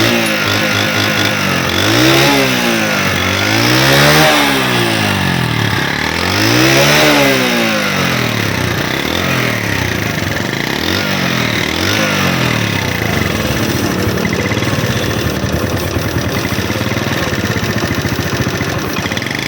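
Single-cylinder motorcycle engine of a China-made CD70-type bike, run with a freshly rebuilt cylinder head (new cam and rockers) to check that its noise is gone. It is revved up and let fall three times, blipped three times more briefly, then settles to a steady idle.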